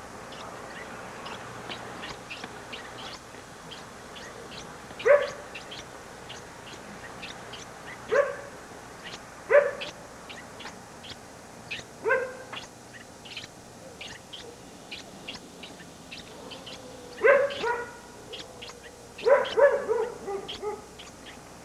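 A dog barking in short single barks and quick clusters, about a dozen in all, over faint hiss.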